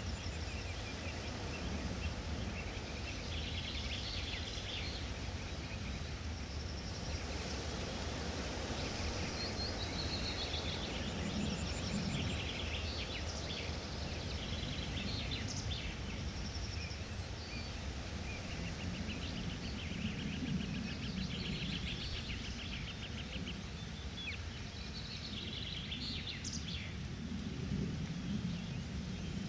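Forest ambience: several small birds chirping and trilling over a steady, low background rumble.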